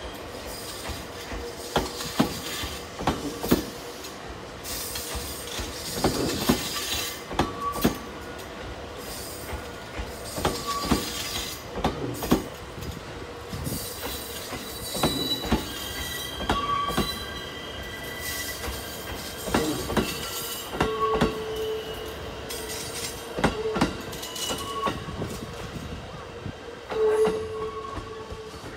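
JR 253 series 1000-number electric multiple unit rolling slowly past over station track. The wheels give repeated sharp clicks over rail joints and points, and short high squeals that come more often in the second half.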